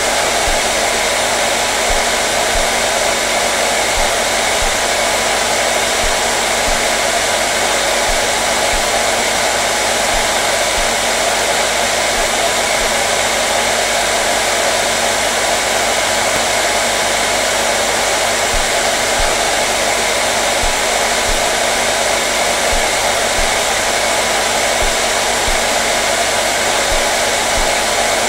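Electric hair dryer running steadily: an even rush of blown air with a motor hum underneath, unchanging throughout.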